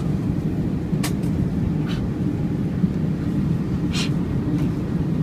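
Steady low drone of an airliner's engines and airflow heard inside the passenger cabin, with a few brief clicks about one, two and four seconds in.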